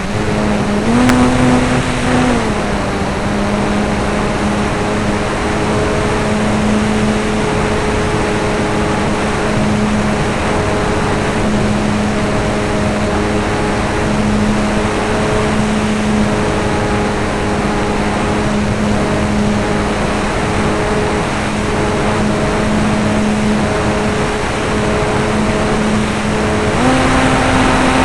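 RC model airplane's motor and propeller, heard from a camera on board the model: a steady pitched drone under a loud rush of air. The pitch rises briefly about a second in and again near the end as the throttle is opened.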